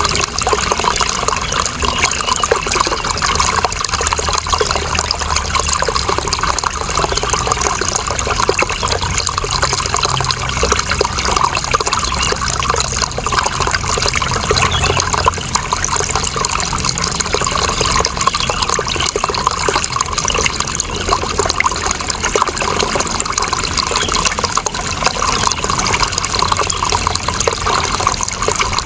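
Running water: a steady, unbroken trickling and splashing flow.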